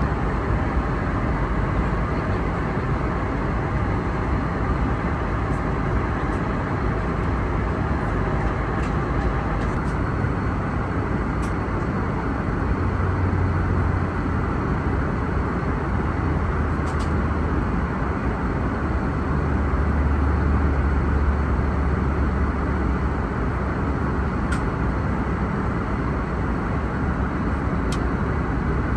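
Steady rush and rumble of airflow and engine noise inside an Airbus A321neo airliner cabin, with a few faint clicks.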